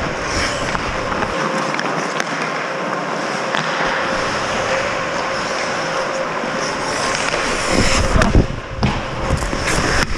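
Ice hockey skate blades scraping and carving across the ice, with sharp clacks of sticks and puck and a few heavier thumps near the end.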